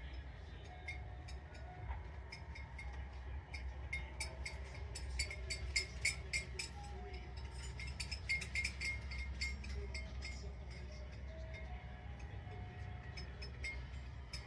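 Plastic toy chains and a plastic ball toy clicking and clinking as a yellow-naped amazon parrot plays with them, an irregular run of light clicks that is busiest in the middle.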